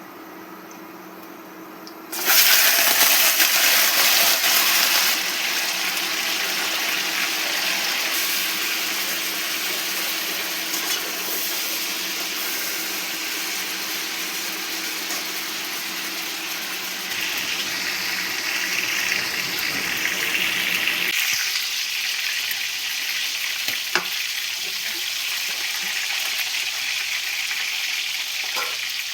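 Food going into hot oil in a pan: a sudden loud sizzle about two seconds in, settling into steady frying.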